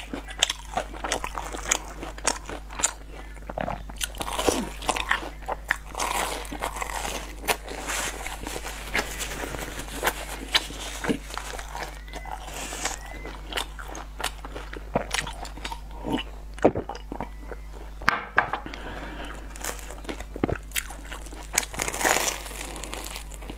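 Close-miked eating of a sugar-coated twisted bread: repeated biting and chewing, full of sharp crackly mouth clicks.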